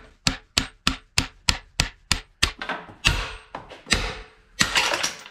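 Hammer blows driving a new bearing into its bore in a CAT D4D engine block: a quick run of sharp strikes, about three a second, then a few heavier, slower blows. The bearing is moving in under the blows.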